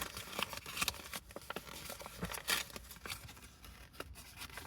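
A parcel's packaging being handled and worked open by hand: irregular rustling and crinkling with scattered small taps and scrapes.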